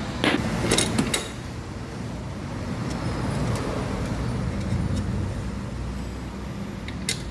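Tools clicking against metal while a new suspension ball joint is fitted to a car: three sharp clicks in the first second or so. Under them runs a steady low rumble of traffic.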